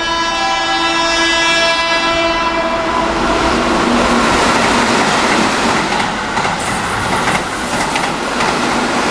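Keihan limited express electric train sounding a long horn note that fades out over the first few seconds. The train then passes at speed, its wheels rushing and clacking over the rail joints before easing off near the end.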